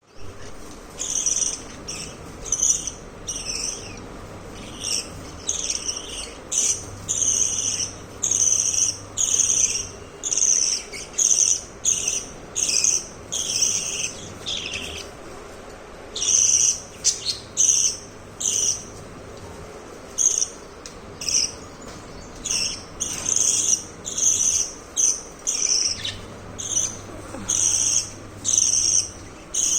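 Budgerigars chirping in a steady run of short, high calls, about one to two a second, with a couple of brief pauses.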